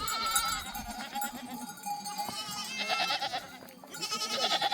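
Flock animals bleating, several wavering calls one after another.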